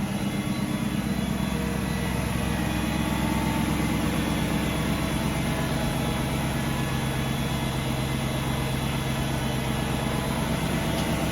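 2003 BMW 540i's 4.4-litre V8 idling steadily shortly after a cold start, an even unchanging hum.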